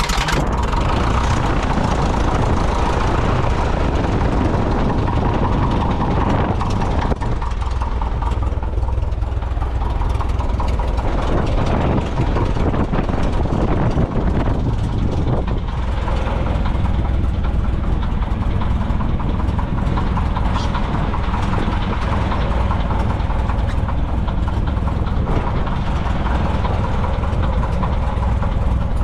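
Piper J-3 Cub's engine and propeller running loud and steady. The sound comes up sharply right at the start, then holds steady with a deep drone under a broad rushing noise.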